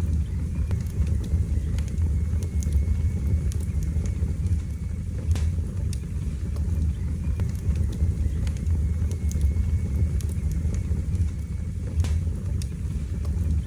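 Wood fire burning in a fireplace: a steady low rumble of flames with irregular sharp crackles and pops, the loudest pops about five seconds in and near the end. A faint thin whistle runs for a few seconds near the start.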